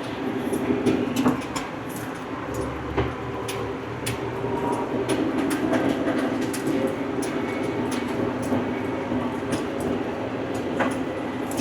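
Tractor engine running steadily under load while pulling a bush hog (rotary cutter), with frequent short rattles and clicks over the steady running.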